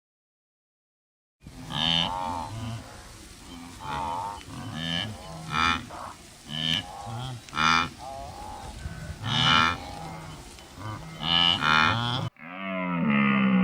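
A series of about ten short animal calls, each pitched, following one another over roughly ten seconds after a silent first second and a half, with a different pitched call starting just before the end.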